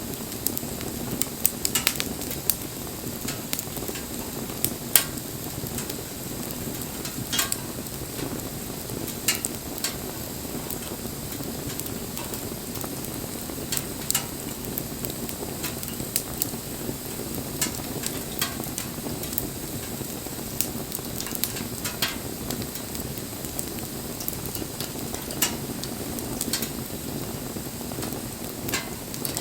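Wood bonfire burning, a steady low rush of flame with sharp crackles and pops at irregular intervals every second or two.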